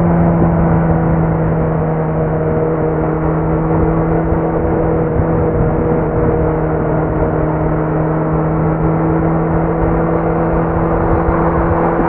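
Kawasaki Z900's inline-four engine running through a Leo Vince muffler with no dB killer, holding steady revs with an even, unchanging note.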